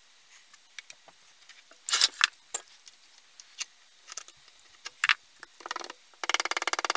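Scattered metal clicks and knocks from hand work on an old chainsaw's parts, loudest about two seconds in. Near the end comes a fast, even run of clicks, about twenty a second.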